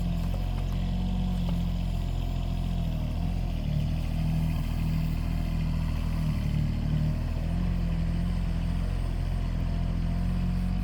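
Mini excavator's engine running steadily while it digs, its note shifting slightly now and then as the load changes.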